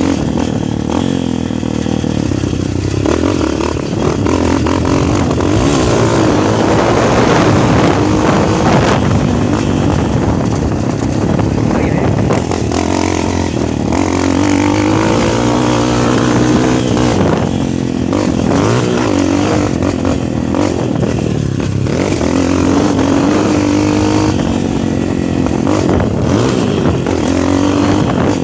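Motocross bike engine revving hard, its pitch rising and falling again and again as the throttle is opened and closed.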